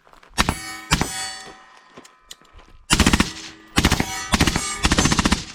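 Two single shots from a machine gun about half a second apart, then three bursts of full-auto fire in the second half, each shot followed by a metallic ringing.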